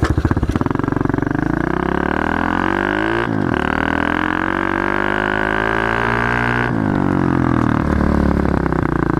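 Pit bike engine accelerating hard, its pitch climbing through the gears, with gear changes about a third of the way in and again about two-thirds in.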